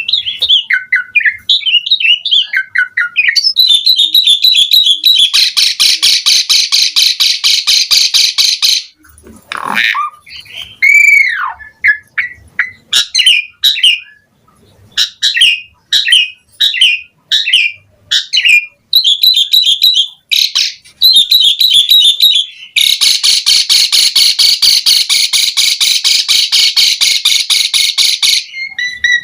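Asian pied starling singing a varied song of short whistles and chirps, with a downward-gliding whistle about ten seconds in and two long, rapid, harsh rattling phrases of several seconds each.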